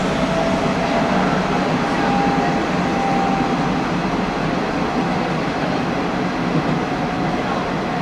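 Hanshin Railway local train running between stations, heard from inside the front car: steady running rumble with a thin motor whine that rises slightly and then eases back.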